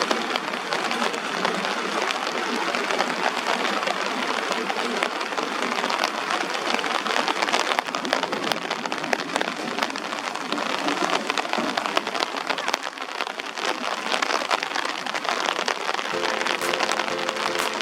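Heavy rain falling steadily, with a dense run of individual drops striking hard surfaces. Steady musical tones come in near the end.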